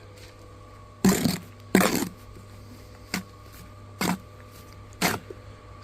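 Bricklayer's steel trowel scraping through wet mortar in five short, separate strokes, the two loudest about a second and two seconds in, over a faint steady hum.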